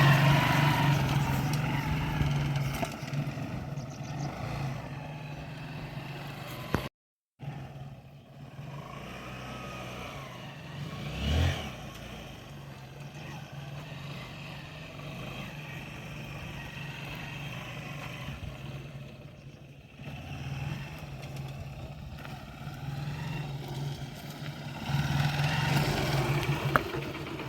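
Motorcycle engine idling with a plastic bottle tied onto its exhaust silencer as a DIY sound mod, a steady low exhaust note. One short throttle blip about eleven seconds in, a brief break in the sound near seven seconds, and the note louder at the start and near the end.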